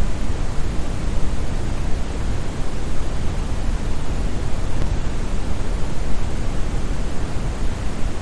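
Synthetic brown noise: a steady, deep hiss of random noise, strongest in the bass, like a distant waterfall.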